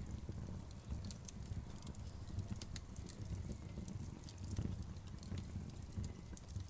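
Wood fire burning, with scattered sharp crackles and pops of the logs over a low, steady rumble.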